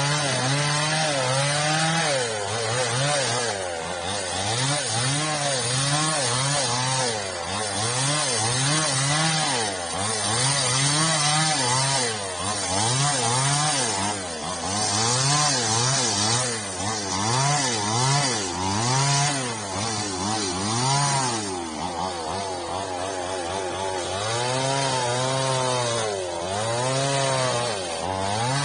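Chainsaw cutting old frond stubs off an oil palm trunk. The engine pitch rises and falls over and over, about once every one to two seconds, as the throttle is opened for each cut and eased off.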